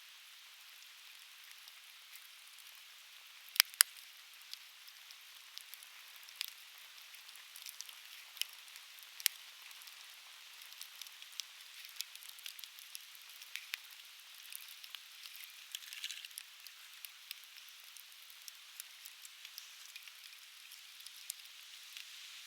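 Conifer firewood burning and crackling, with irregular sharp pops throughout and two loud pops close together about three and a half seconds in, over a steady hiss.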